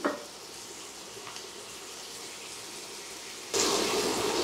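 Chicken with spices and tomato purée sizzling in a frying pan, a faint steady sizzle at first. About three and a half seconds in it turns suddenly much louder as the pan is stirred with a spatula.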